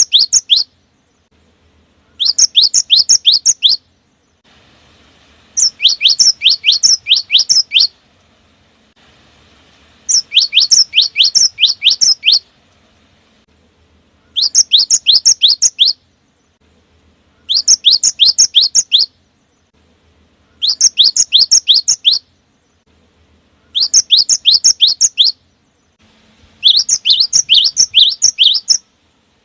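Cinereous tit (gelatik batu) singing: short, fast phrases of high, quick falling notes, repeated about every three seconds.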